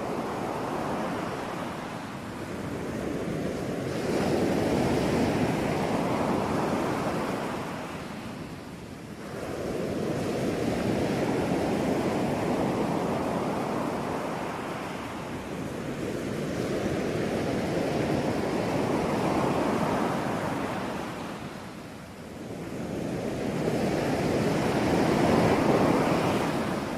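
Ocean surf: waves break and wash in one after another, the sound swelling and falling back about every six to seven seconds, four surges in all.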